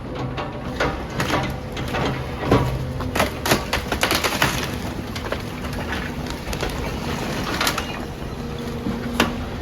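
Demolition machinery breaking up a building: frequent cracks and crunches of breaking rubble and timber over the steady running of the machine's engine.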